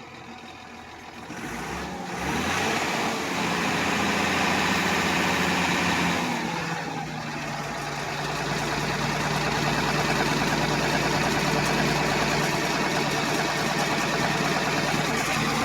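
Vehicle engine running: the revs come up about two seconds in, hold for a few seconds, ease back, then settle into a steady run with a low hum.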